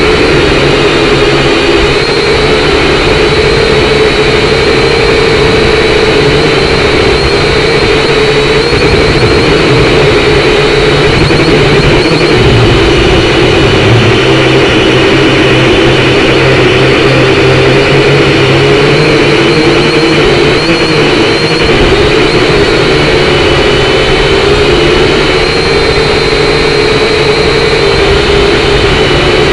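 Syma X5C quadcopter's small brushed motors and propellers whining steadily in flight, a loud, even drone with a slight waver in pitch.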